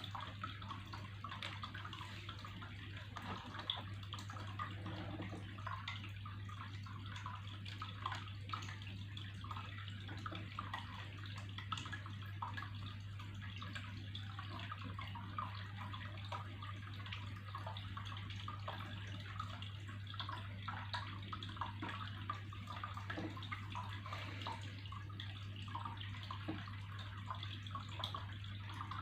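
Water trickling and splashing continuously, with many small drips and spatters over a steady low hum.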